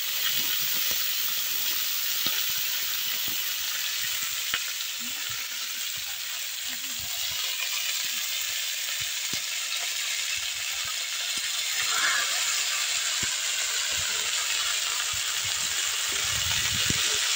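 Shredded cabbage frying in hot mustard oil in a metal karai: a steady sizzling hiss with scattered small crackles.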